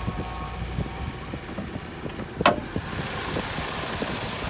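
The 1.6-litre petrol engine of a 2010 Daewoo Lacetti CDX idling steadily, with a brief tone fading out at the start. A single sharp knock about two and a half seconds in is the loudest sound, and the engine noise sounds brighter after it.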